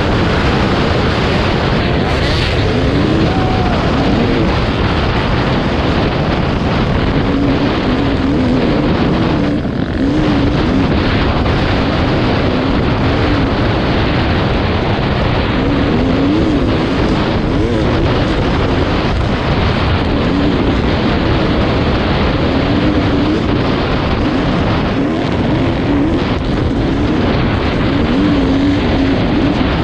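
Dirt bike engine running under load while riding, its pitch rising and falling again and again as the throttle is worked, with a brief drop about ten seconds in, under heavy wind rush.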